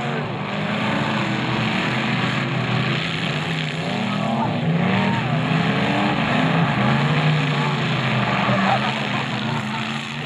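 Several demolition derby cars' engines running and revving hard, their pitch rising and falling as they accelerate and slow.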